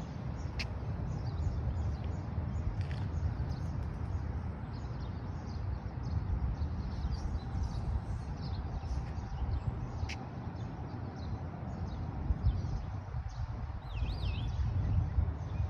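Many short bird chirps scattered throughout, over a steady low rumble, with two sharp clicks, one near the start and one about ten seconds in.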